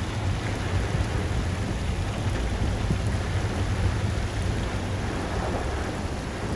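Heavy typhoon rain falling steadily, with a deep rumble underneath from wind on the microphone.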